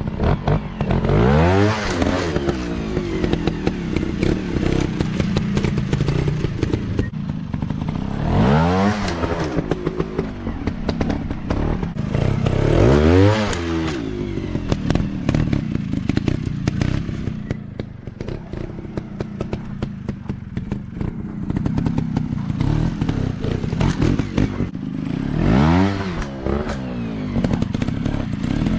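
Dirt bike engines running, with the pitch climbing and dropping back in four strong revving surges, about a second in, around nine and thirteen seconds, and near the end. Clattering and knocks run through it.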